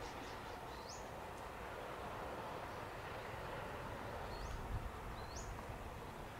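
Faint, steady outdoor ambience, an even soft hiss, with three short high bird calls that sweep sharply upward: one about a second in and two close together near the end.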